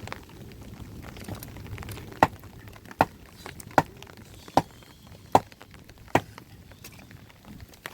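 Six sharp strikes in an even rhythm, about one every 0.8 seconds, starting about two seconds in, over a low steady background noise.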